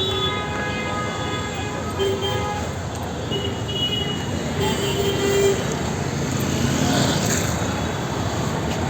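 Busy street traffic noise with vehicle horns honking over it: a horn held for about the first two seconds, then short toots at about two, three and a half and five seconds in.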